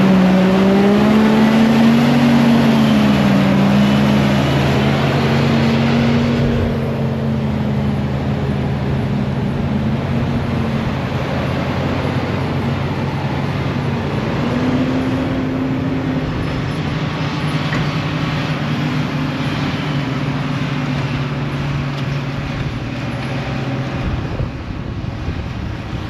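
Large diesel farm machinery running, its engine note rising and falling with changing load. The sound drops in level and changes about six and a half seconds in, then runs on steadily.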